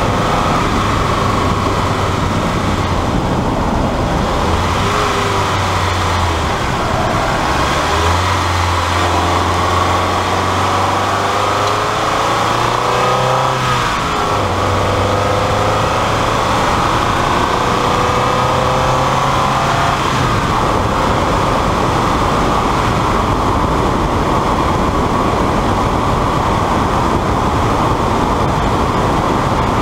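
1999 Mazda Miata's 1.8-litre four-cylinder engine while driving, over road and wind noise. It slows and drops to first gear around the middle, then accelerates and revs up through the gears.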